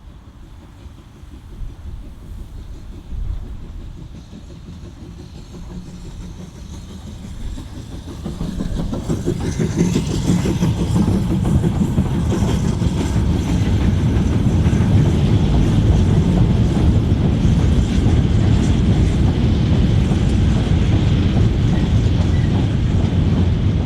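A steam-hauled train approaching, growing steadily louder from about eight seconds in, then running past close by.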